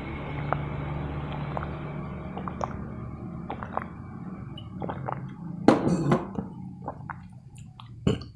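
Close-miked eating sounds: scattered small clicks and clinks, a louder rustling burst about six seconds in, and a sharp knock near the end, over a steady hiss that fades out over the first few seconds.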